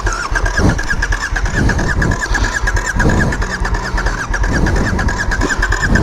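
Motorcycle engine being cranked over on its starter again and again without catching, a steady fast-pulsing churn: the bike will not start.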